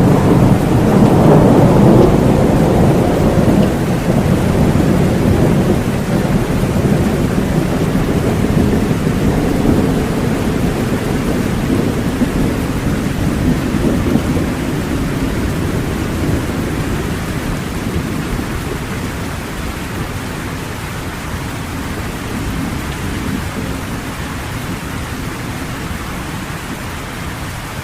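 Rain with a low rolling thunder rumble, loudest in the first few seconds and slowly dying away, the whole sound gradually fading.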